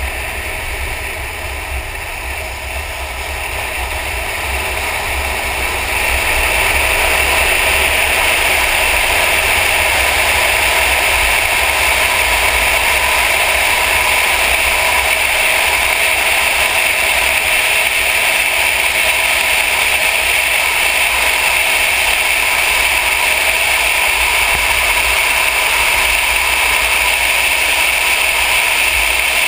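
Mercedes-AMG car driven at speed on a track: steady engine and wind noise, growing louder about six seconds in and then holding steady.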